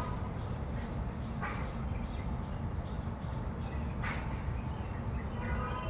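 Steady high-pitched insect drone over a constant low rumble, with two short calls about a second and a half and four seconds in.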